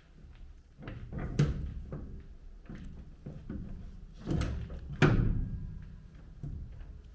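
A few knocks and clunks from objects being handled, the loudest about five seconds in, each with a short ringing tail.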